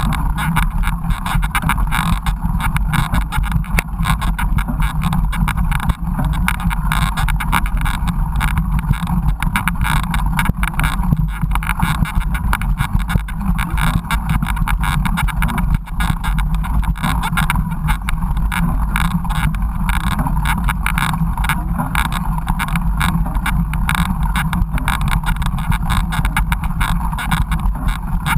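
Mountain bike riding a rough trail, heard through an action camera mounted on the bike or rider: steady, loud wind rumble and road noise with constant small rattles and knocks from the bumpy ground.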